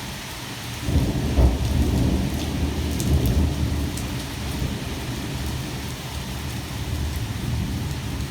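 Steady heavy rain from a severe thunderstorm; about a second in, a peal of thunder breaks out and rumbles for a few seconds before fading back under the rain.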